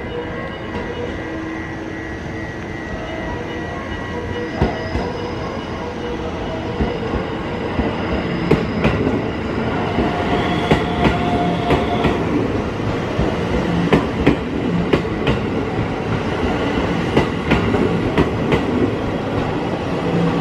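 Electric train running on the tracks through a station, its rumble slowly growing louder. From about halfway in, its wheels click repeatedly over the rail joints.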